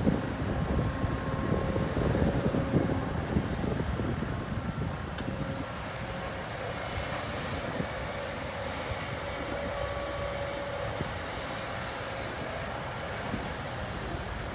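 Heavy diesel earthmoving machinery running with a steady low rumble, with knocks and clanks in the first few seconds, then a little quieter and steadier.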